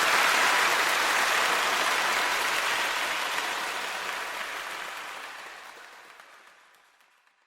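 Crowd applauding: a dense wash of many hands clapping that fades away steadily over the last few seconds.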